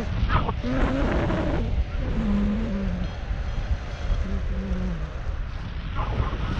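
Wind buffeting the microphone in gusts, a heavy low rumble throughout. A few short, faint low tones come through around the middle.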